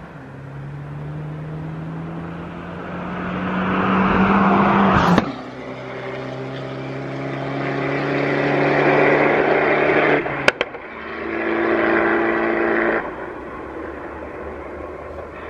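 Turbocharged 1.4 T-Jet four-cylinder of a 200 bhp Abarth 500, with a Monza exhaust, accelerating hard along the road through the gears. The engine note rises, breaks with a sharp crack at the shifts about five and ten and a half seconds in, and the car passes by, louder near the end of each pull.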